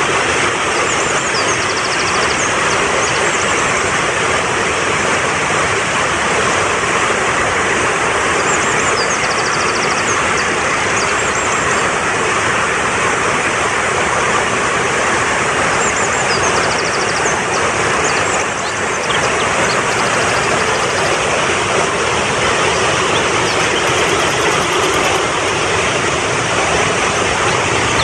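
Mountain stream water rushing steadily, with short, high, repeated bird chirps heard over it a few times.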